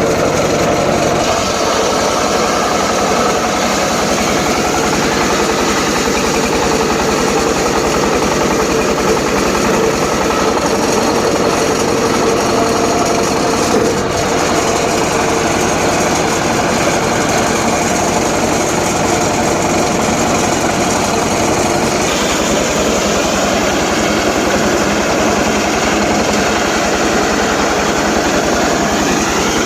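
Homemade circular saw running steadily while ripping teak timber: a loud, continuous machine drone. About three quarters of the way through, the sound shifts.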